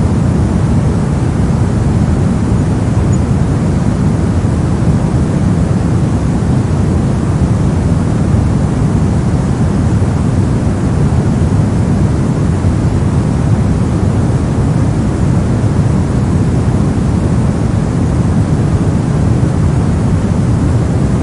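Steady soft noise for sleep and focus: a constant deep hiss-like wash, heaviest in the low end with little high hiss, unchanging throughout.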